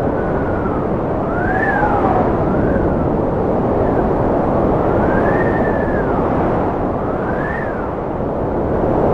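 Cold wind blowing hard and steadily, with a whistling howl that rises and falls in pitch about five times.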